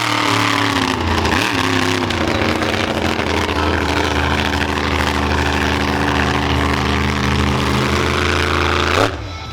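Monster truck engine revving up and down, then held at a steady high drone, dropping away near the end.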